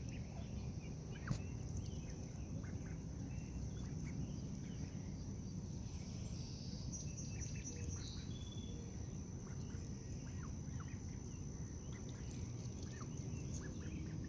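Faint outdoor ambience: short bird calls scattered throughout, over a steady high-pitched insect drone, with a single light click about a second in.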